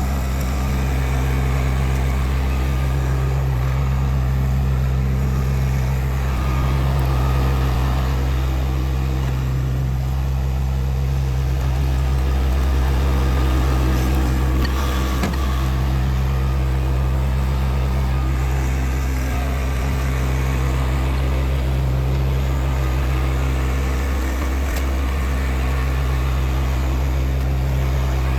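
Tractor engine running steadily at a constant speed, a low, even drone with no pauses.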